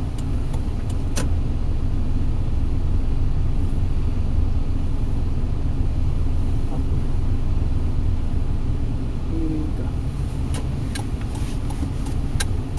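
Car engine and road noise heard from inside the cabin: a steady low rumble. One sharp click about a second in, and several more near the end.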